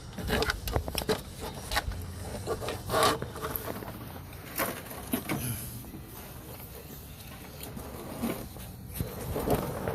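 Hand tools and small carburetor parts being handled during reassembly: irregular clicks, taps and knocks with some scraping and rubbing, the loudest about three seconds in.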